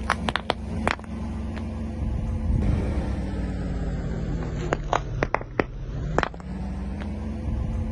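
Car engine running slowly under load while its tyre rolls over and crushes objects, with sharp cracks and snaps: a cluster in the first second and another about five to six seconds in.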